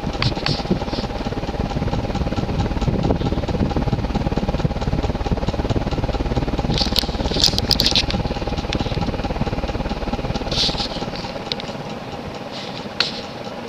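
Moss WF Series 42-inch ceiling fan, driven by an oversized spinner motor, running fast on medium speed: a steady rush of moving air over the microphone with a constant hum from the motor, which the owner puts down to a bad coil. A few short sharp clicks come in over it, clustered about halfway through and again near the end.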